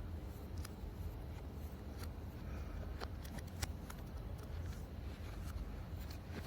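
Scattered light clicks and small scrapes of small parts being handled, over a steady low hum; one sharper click comes about three and a half seconds in.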